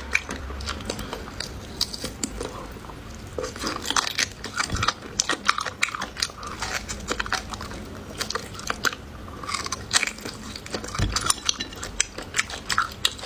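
Close-miked eating: a person biting and chewing food, with many crisp, irregular crunches and wet mouth clicks.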